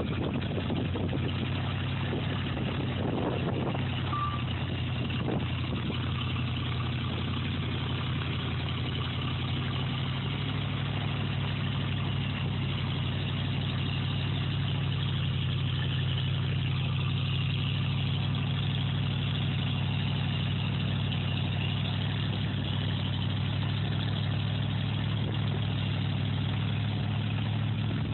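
A vehicle engine running steadily at a constant low pitch, with a few faint knocks a few seconds in.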